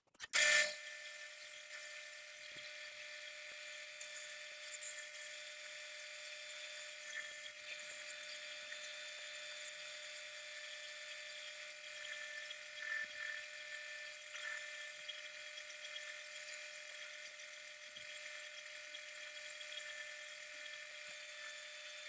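A power tool's motor running steadily with a high whine, with brief scratchy bursts now and then as it works the piece.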